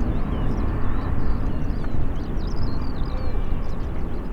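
Jet airliner engines running at takeoff power, a steady deep rumble, with small birds chirping over it.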